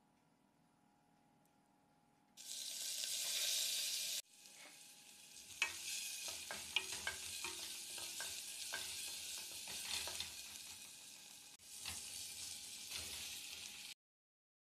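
Chopped onion and garlic sizzling in hot butter in an aluminium pot, the sizzle starting suddenly a couple of seconds in. A wooden spoon stirs them, with many sharp clicks and scrapes against the pot.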